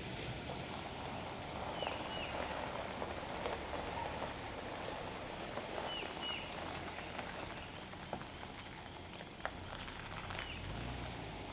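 Heavy rain falling steadily, with scattered ticks of individual drops. A short, high double chirp that falls in pitch recurs about every four seconds.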